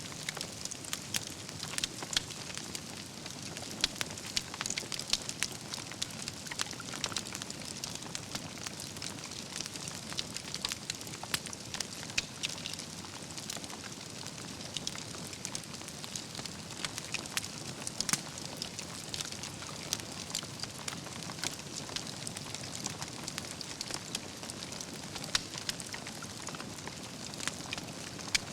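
Wood campfire burning: a steady low rush of flames with irregular sharp crackles and pops from the burning logs all through.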